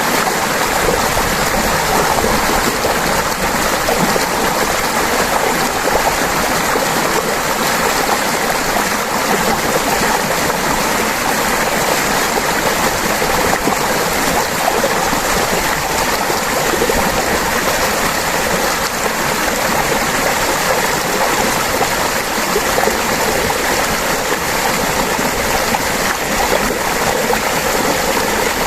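River water flowing and babbling over stones, a steady, even rush.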